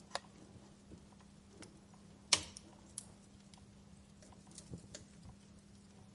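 Wood fire burning in a fireplace: scattered sharp crackles and pops, the loudest about two seconds in, over a faint steady low hum.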